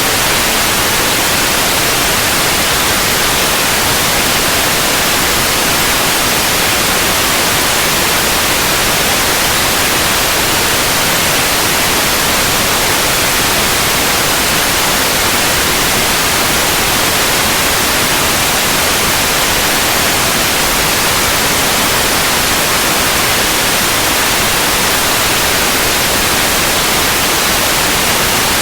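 Steady, unchanging white noise: an even hiss across the whole range.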